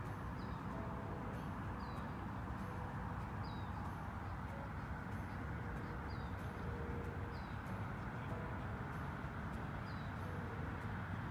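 Outdoor ambience of a small bird giving short, high, falling chirps about once a second over a steady low background rumble.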